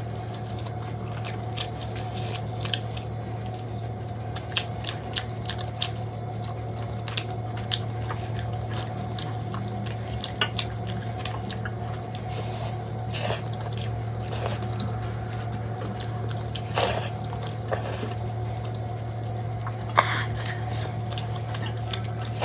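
Close-up sounds of a person eating a chicken curry and dhido meal: wet chewing, lip-smacking and scattered mouth clicks, with a steady low hum underneath.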